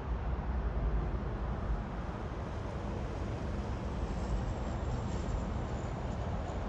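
Freight train rolling past: a steady rumble of wheels on rails, with a faint high squeal joining about four seconds in.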